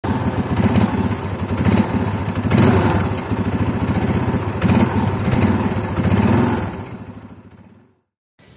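An engine running with a rapid, even pulse, fading away near the end.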